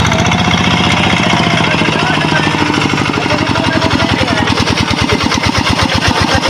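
An engine running with a fast, even pulsing beat. The pulses become more distinct about halfway through.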